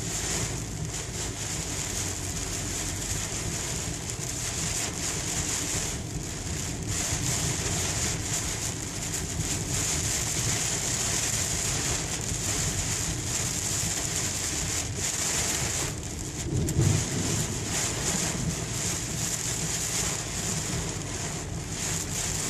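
Heavy rain pelting a moving car's roof and windshield during a thunderstorm, a dense steady hiss over the car's low road and engine rumble, heard from inside the cabin. About three-quarters of the way through there is a brief louder low rumble.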